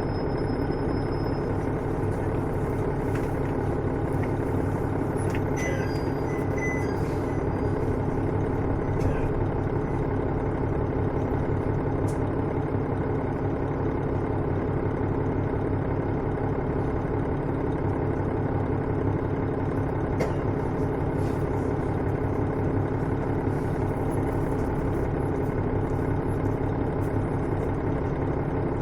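Diesel engine of a KiHa 110 series railcar (KiHa 112-3) heard from inside the car, running at a steady, unchanging level.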